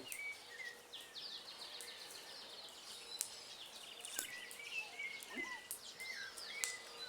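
Outdoor ambience of several birds chirping and giving quick trilling calls, with a few sharp snaps scattered through.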